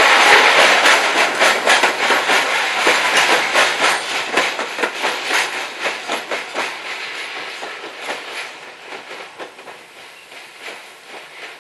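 Freight train's wagons rolling past, the wheels clattering over the rail joints in an irregular run of clicks, the sound fading steadily as the train moves away.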